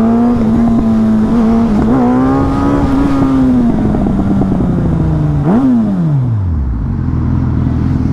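A high-performance vehicle engine revving hard at a high, steady pitch. About five and a half seconds in it gives a quick rev blip, then the pitch drops away steeply as it passes by and slows.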